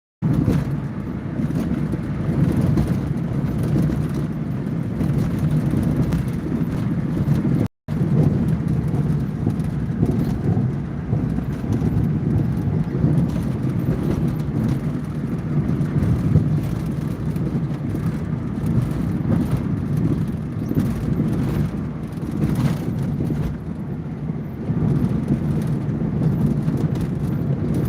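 A car being driven, a steady low rumble of road and engine noise, broken once by a brief gap of silence near eight seconds in.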